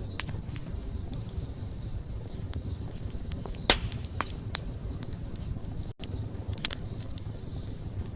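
Wood campfire crackling: irregular sharp pops and snaps over a steady low rumble of the flames, the loudest pop a little past the middle. The sound cuts out for an instant about six seconds in.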